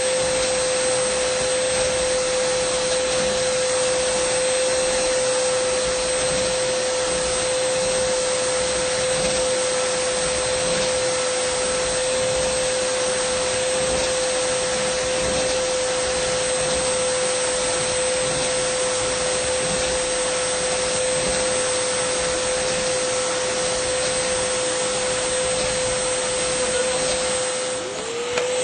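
Dyson vacuum cleaner running steadily: a constant rush of air with a strong, steady whine. Near the end the whine dips briefly in pitch and loudness, then comes straight back up.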